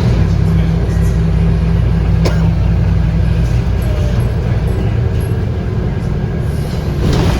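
Scania DC9 five-cylinder diesel engine of a Scania K230UB city bus running under way, heard from inside the cabin, its low engine note changing about halfway through.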